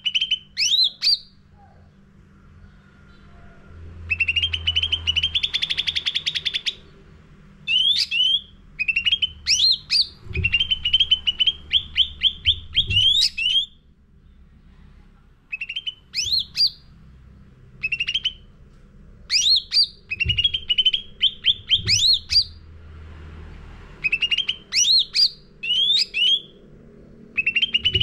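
Cucak ranting songbird singing vigorously: bursts of rapid, loud trills broken by sharp upward-sweeping whistled notes, each phrase a second or two long with short pauses between, over a faint low hum.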